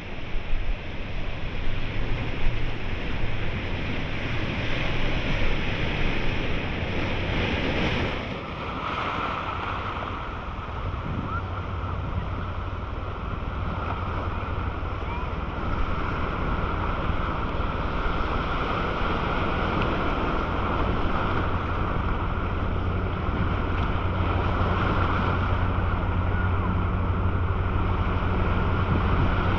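Steady rushing water noise, as heard underwater, with a constant low hum beneath it; about eight seconds in, a higher steady whine joins and holds.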